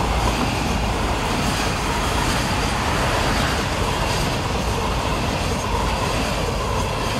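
A train hauled by an ED75 AC electric locomotive rolling past, a steady rumble and rattle of wheels on the rails.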